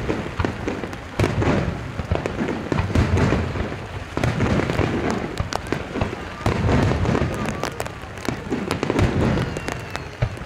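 Aerial fireworks shells bursting in quick succession: a dense run of booms and crackles that swells and falls several times.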